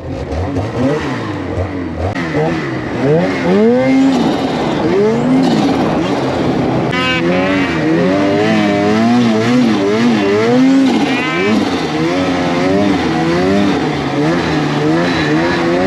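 Snowmobile engine revving up and down over and over as the throttle is worked, its pitch rising and falling about once a second.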